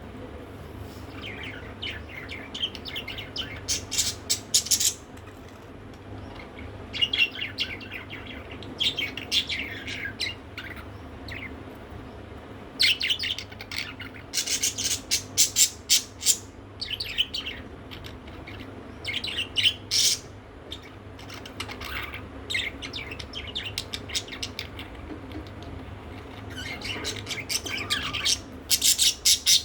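Budgerigar chattering in bursts of rapid high chirps and warbles, each burst lasting a second or a few seconds, with short pauses between them.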